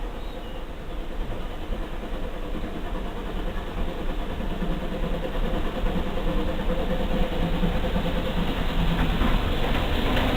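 A train approaching: a steady low rumble that grows slowly louder, just before its wheels reach the microphone.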